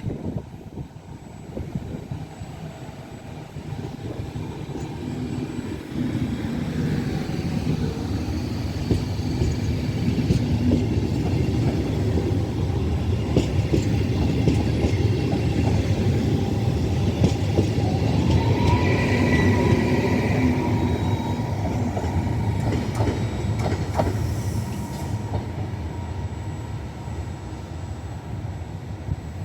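Train passing through the station. The rumble of the wagons builds, then runs loud for a while with the clicks of wheels over the rail joints and a brief high tone about two-thirds of the way in, then fades away.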